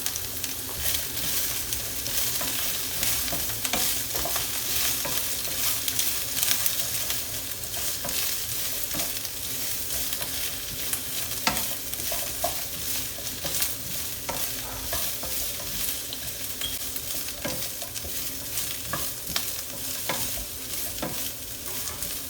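Mange tout, baby sweetcorn and garlic sizzling steadily in hot oil in a pan, with a cooking utensil stirring and knocking against the pan now and then.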